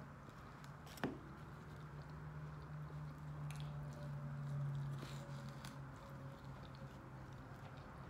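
Faint chewing and soft, squishy biting of fried fish and french fries. There is one sharp click about a second in and a steady low hum underneath.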